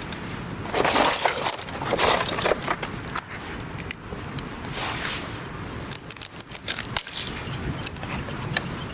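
Wood campfire crackling, with scattered sharp pops throughout and a few louder noisy surges about one, two and five seconds in.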